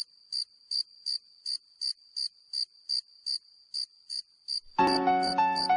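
A cricket chirping in an even rhythm, nearly three short high chirps a second. Near the end, keyboard music with a piano-like melody comes in over it.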